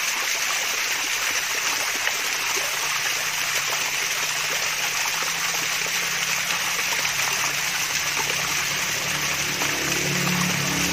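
Water splashing and trickling steadily down a small waterfall, a continuous even rush. A faint low hum comes in after a few seconds and grows stronger near the end.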